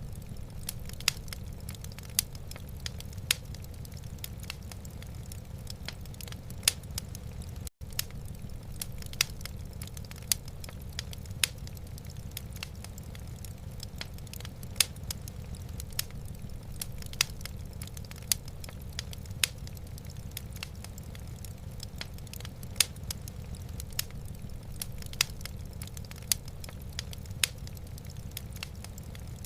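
Wood fire in a fireplace crackling: irregular sharp pops and snaps, several a second, over a steady low rumble. The sound cuts out for a split second about eight seconds in.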